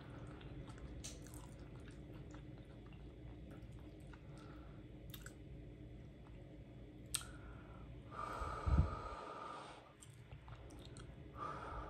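Mouth sounds of someone chewing soft, cheesy spaghetti squash, with a couple of sharp clicks of the fork. About eight seconds in comes a louder, breathy rush of air lasting a second or two, and a shorter one near the end.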